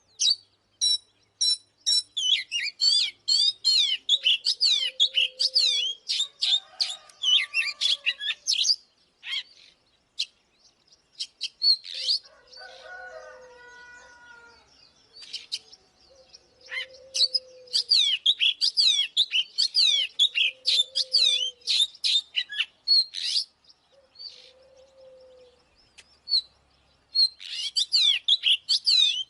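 Oriental magpie-robin singing: rapid, varied whistled and chattering phrases in long bursts, broken by pauses with short, low, mellow notes between them.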